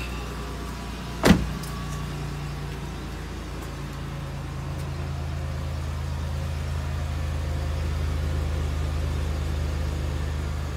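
2011 Chevy Impala LT's 3.5-litre V6 idling steadily just after a cold start in near-freezing weather, heard at the tailpipe and growing slightly louder. A car door slams shut about a second in.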